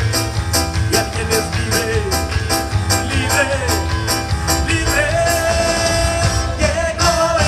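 Live band music at a brisk, steady beat: cymbal strikes about four times a second over a strong bass, with a melody line that holds a long note in the second half.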